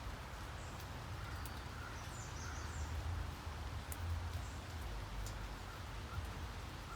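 Steady rain hiss with a low rumble underneath and sharp drip ticks now and then; a bird chirps a few times about two seconds in.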